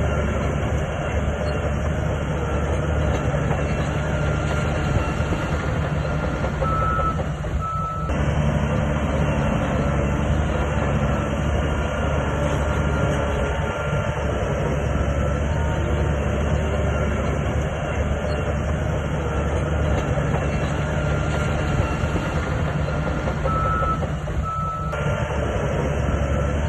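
Shantui crawler bulldozer's diesel engine working under load, running steadily with its steel tracks clattering. Two short high beeps sound about a third of the way in and again near the end, typical of the reverse alarm as the dozer backs up.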